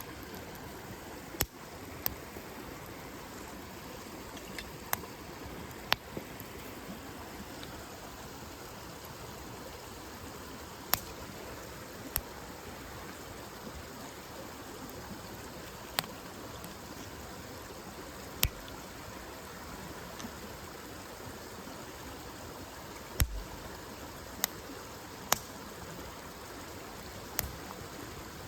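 Wood campfire burning: a steady hiss with sharp crackles and pops of the burning wood, about a dozen scattered irregularly. The loudest pop comes near the end with a low thump.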